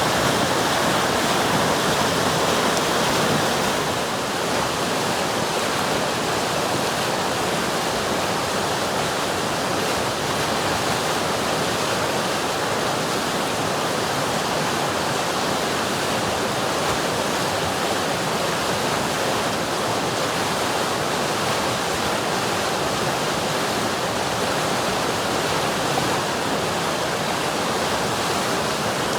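River water rushing steadily, an even, unbroken hiss of flowing water; it eases slightly about four seconds in.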